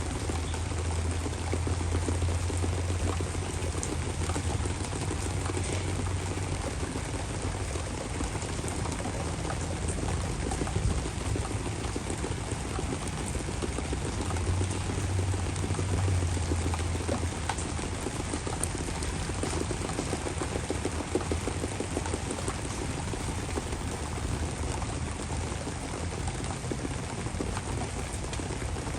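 Heavy rain pouring down steadily, a dense even hiss, with a low rumble during the first several seconds and again about halfway through.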